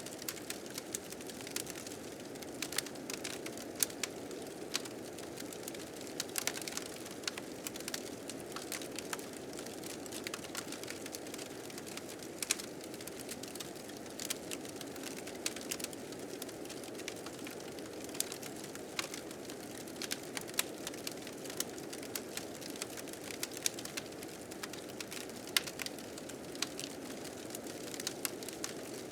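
Wood fire crackling, with frequent irregular sharp pops, over the steady rush of blizzard wind.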